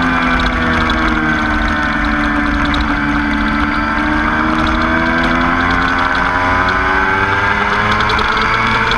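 Motorcycle engine running hard on a race track: the revs ease down over the first few seconds, then climb steadily under acceleration, with wind and road rumble underneath.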